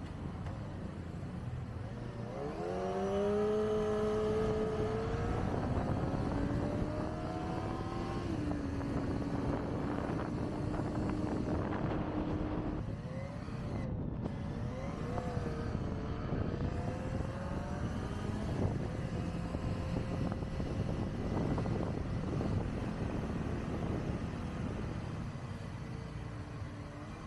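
Kawasaki Ninja ZX-25R's inline-four engine pulling under way, its pitch rising from about two seconds in, then dropping at a shift near eight seconds and holding steady. Later the pitch wavers up and down with the throttle, over a steady rush of wind and road noise.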